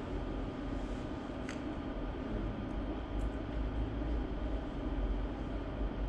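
Steady background rumble and low hum of a lecture room, with a couple of faint clicks.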